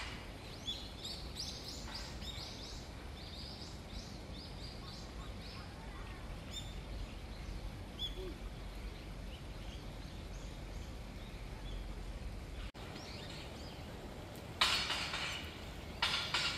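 Birds chirping, many quick falling calls in the first few seconds and fewer after, over a steady low rumble. A louder rush of noise comes near the end.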